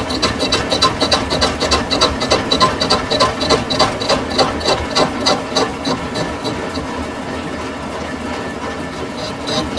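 Lathe running and cutting a metal sugarcane juicer roller bush, a steady machine hum with a regular metallic ticking several times a second. The ticking fades about seven seconds in and comes back near the end.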